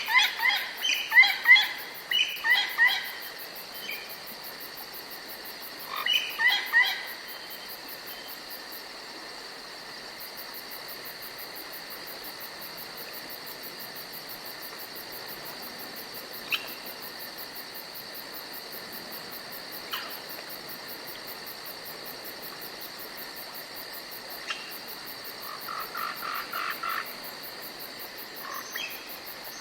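Forest ambience: a steady high-pitched insect drone, broken by short bursts of rapidly repeated animal calls, several notes a second. The bursts come at the start, about six seconds in, and again near the end.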